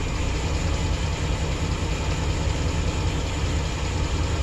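2008 Chevrolet Express van engine idling steadily, with cylinder 2's fuel injector switched off by a scan tool for a cylinder power balance test. The engine also has a lean misfire on cylinder 1.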